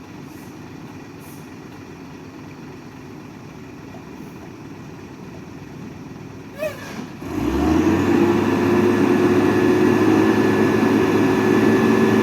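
Heavy truck's diesel engine comes in loud about seven seconds in and runs at a steady speed, over a low background rumble before it. A brief high-pitched sound comes just before the engine rises.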